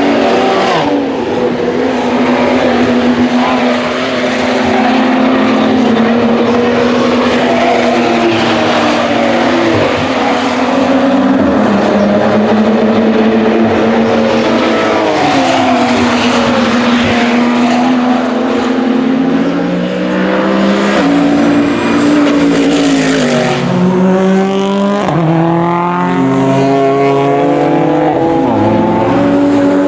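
Several GT-class race cars running hard at high revs, their engines overlapping, with a run of quick gear shifts in the second half.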